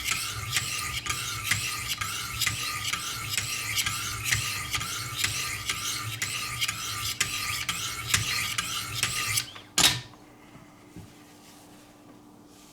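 Wicked Edge guided sharpening system's diamond stones rasping along a knife blade in quick, even alternating strokes, about two a second. The strokes stop about nine and a half seconds in, followed by a single sharp clack.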